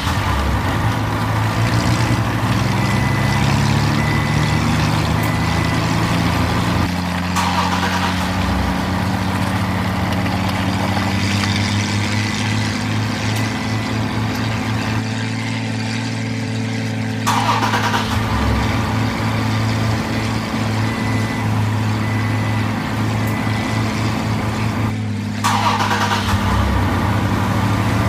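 Truck engine running and revving, its pitch slowly climbing, with abrupt cuts and restarts every several seconds.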